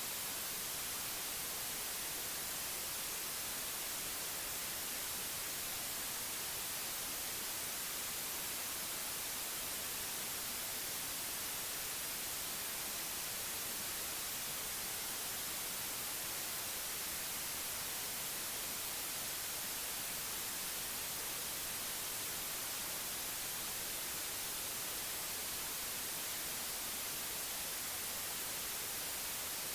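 Synthetic white noise: a steady, unchanging hiss, brightest in the high frequencies, played as a sleep aid.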